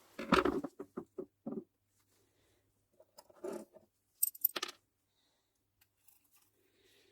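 Small hard parts being handled: a knock and a quick run of four short clicks, a rattle, then a few sharp bright metallic clicks.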